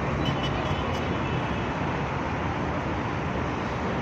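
Steady road traffic noise: a continuous rumble and hiss of cars.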